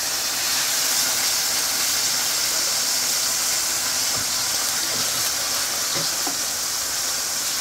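Seasoned chicken strips sizzling in hot oil in a stainless steel skillet, a steady hiss.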